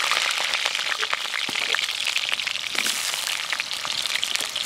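Kohlrabi pieces frying in hot mustard oil in a wok: a steady sizzling hiss with scattered crackles, easing slightly toward the end.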